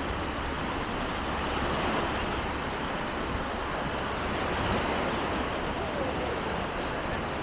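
Steady outdoor background noise with faint, distant voices and no distinct events.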